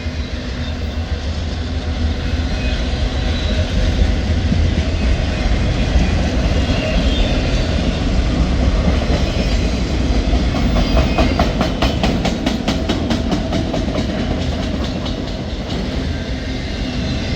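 Slow freight train of empty autorack cars rolling past with a steady low rumble. From about halfway through, a rapid run of wheel clicks lasts for around five seconds.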